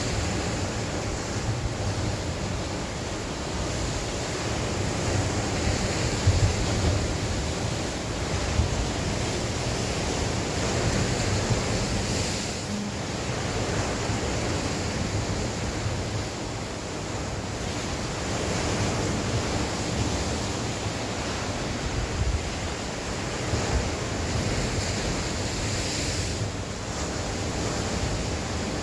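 Sea waves breaking and washing onshore in a strong wind, a continuous rush that swells and eases every few seconds. Wind gusts buffet the microphone as uneven low rumbles.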